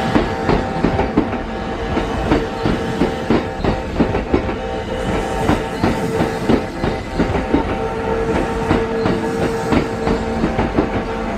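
Kintetsu electric train running through the station, its wheels clacking in quick succession over the rail joints over a steady tone.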